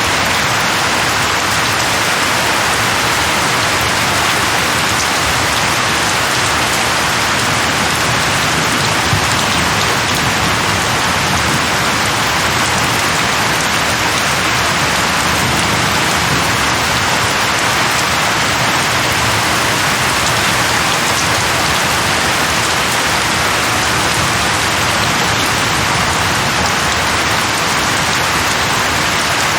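Steady heavy rain, an even hiss of falling rain that holds constant throughout.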